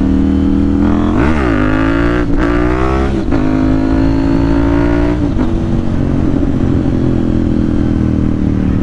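KTM 790 Duke's parallel-twin engine and exhaust under way. About a second in the revs dip and snap back up. The pitch then climbs through two quick gear changes, holds, and falls back about five seconds in as the throttle eases to a steady cruise.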